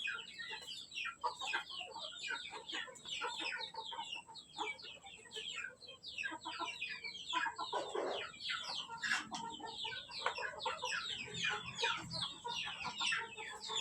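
A flock of ayam kampung (Indonesian free-range village chickens) at feeding, calling without a break: a dense chatter of many short, falling cheeps and clucks overlapping one another.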